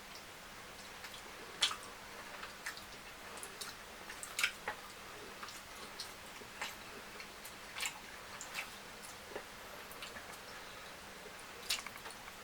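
A person eating fried fish curry with fufu: irregular wet chewing, squishing and mouth clicks, a few louder smacks among them.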